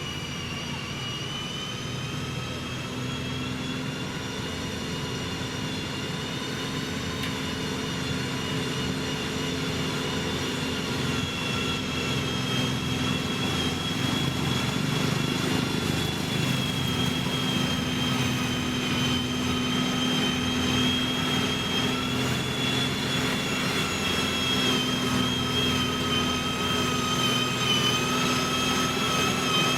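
Diesel engine of heavy road-building machinery running steadily, with a high whine over the engine hum, getting gradually louder as the machine comes closer.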